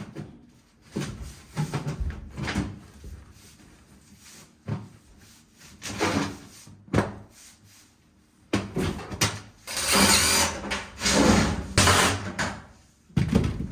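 Rigid round sheet-metal duct being pressed together along its seam: scattered clicks and knocks as the tabs are clipped in, then longer stretches of rattling, scraping metal in the second half.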